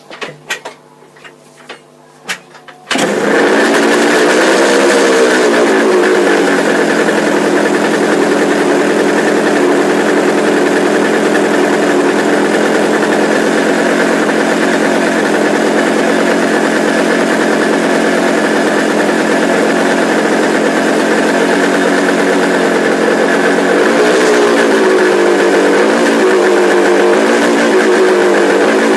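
Freshly rebuilt Kawasaki H1 500 three-cylinder two-stroke engine catching and firing up about three seconds in, after a few clicks and knocks. It is blipped up and back down, then idles steadily, with more blips of the throttle near the end.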